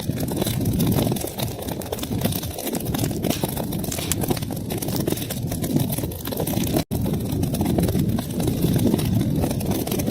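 Wood fire burning in a fireplace: a steady low rumble of flames with many small crackles and pops throughout, broken by a split-second dropout to silence about seven seconds in.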